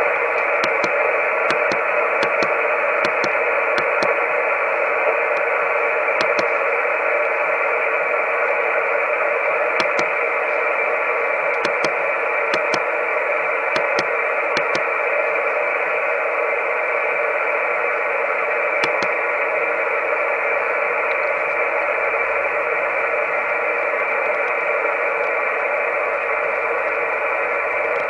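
Amateur radio receiver putting out steady hiss through a narrow voice-band filter, with sharp static clicks scattered through the first half and no carrier tone heard.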